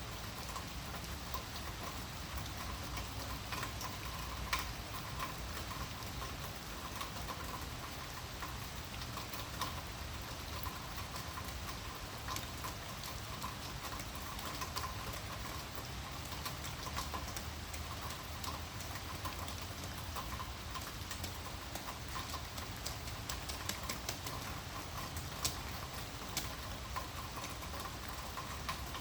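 Steady rain falling, with many small drops pattering and ticking throughout.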